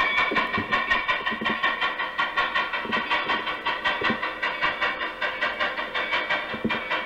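Rhythmic train running sound, about four even beats a second.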